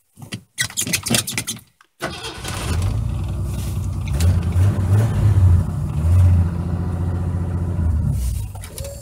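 1985 Ford F-150's 300 cubic-inch inline six cranking for about a second and a half, catching about two seconds in, then running with a couple of revs. It is being restarted after running out of gas and being refuelled.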